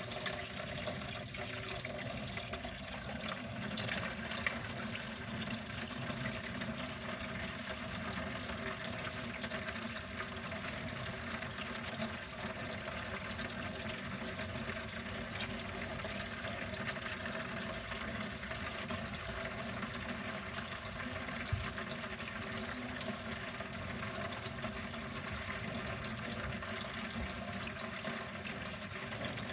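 Water running steadily, an even unbroken flow.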